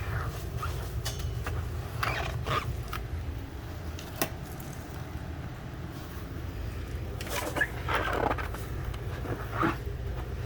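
Wet cleaning of an RV refrigerator's interior: scattered knocks, a sharp click and stretches of rubbing as the shelves and walls are washed, the longest rubbing about three-quarters of the way through. A steady low hum runs underneath.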